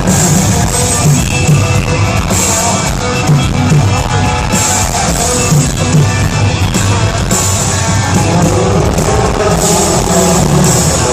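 Live country-rock band playing loud over a concert PA, with a steady beat and some singing.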